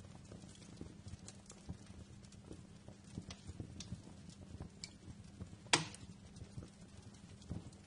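Wood fire crackling: irregular small snaps and ticks over a low steady hum, with one sharp loud pop nearly six seconds in.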